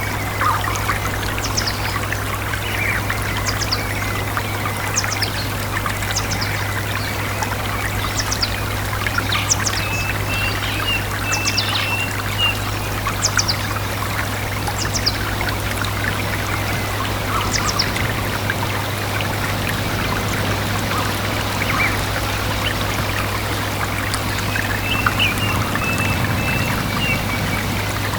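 Small stream flowing and trickling steadily, with a bird giving short, high, falling chirps over and over for much of the time and a brief warbling call twice, once near the middle and once near the end. A steady low hum runs underneath.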